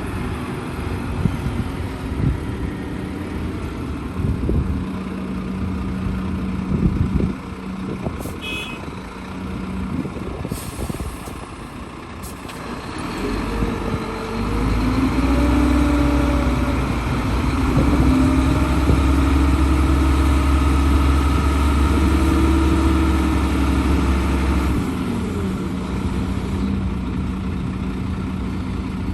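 Heavy diesel earthmoving machinery, an excavator and dump trucks, running steadily, with a few sharp knocks in the first several seconds. About halfway through, a diesel engine runs louder and deeper under load for around ten seconds, then eases off.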